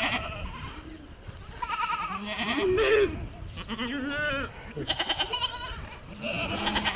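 Goats bleating: a run of separate quavering calls, one after another, from a herd.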